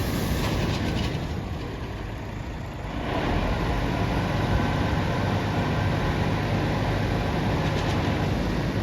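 Truck engine running under steady load, easing off for a moment and picking up again about three seconds in.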